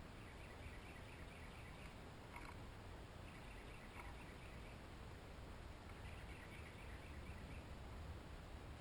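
Faint songbird calls: short runs of rapid chirps, repeated every few seconds, over a low steady outdoor rumble, with a couple of soft clicks.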